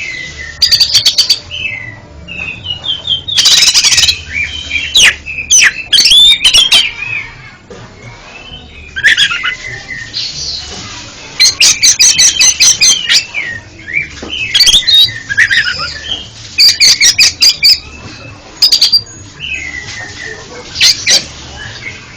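Oriental magpie-robin (kacer) singing in loud, varied phrases: gliding whistles mixed with bursts of rapid sharp ticking notes, with short pauses between phrases.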